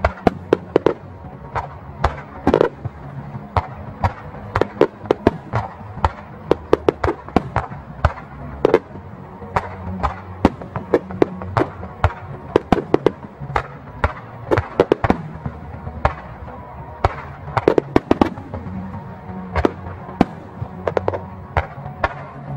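Aerial fireworks shells bursting in a rapid, uneven barrage of sharp bangs, several a second.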